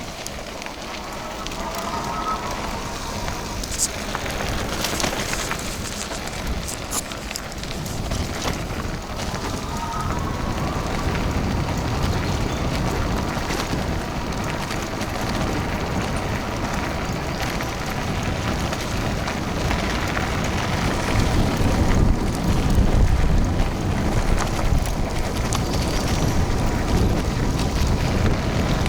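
Wind buffeting the microphone and tyre rumble while riding an electric fatbike, a dense steady rush that grows a little louder towards the end. A faint steady whine runs through it from about ten seconds in.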